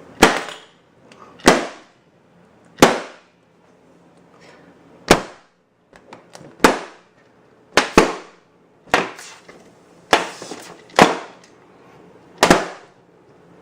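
Balloons popping one after another as a thumbtack taped to the front of a toy Thomas engine runs into them: about a dozen sharp pops at uneven intervals, roughly a second apart, a couple of them in quick pairs.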